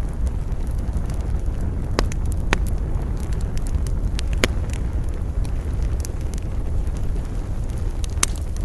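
Campfire burning, its wood giving scattered sharp crackles and pops, a few louder ones standing out, over a steady low rumble of wind.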